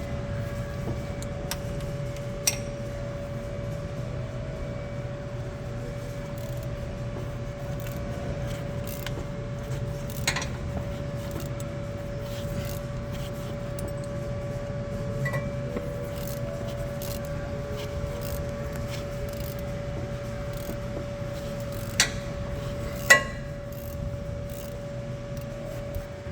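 Wrench slowly turning a bolt welded onto a broken Hemi exhaust manifold stud to back the stud out: a few sharp metallic clicks and scrapes over a steady hum.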